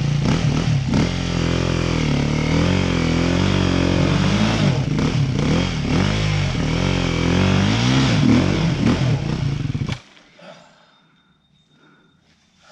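Dirt bike engine revving up and down hard as the rider tries to get traction on slick wet rocks, the rear tyre spinning, then the engine cuts off abruptly about ten seconds in.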